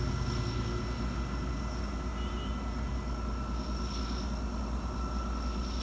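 Distant freight train hauled by diesel locomotives along the steep mountainside railway: a steady low rumble.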